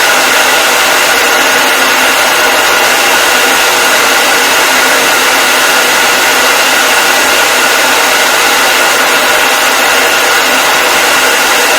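Hair dryer running continuously: a loud, steady rush of air with a faint whine from its motor and fan.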